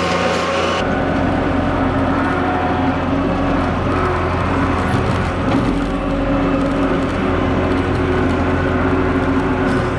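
Skid steer's diesel engine running steadily under load while grading dirt with a toothed bucket. The higher hiss drops away about a second in, and the engine keeps going with small swells in level.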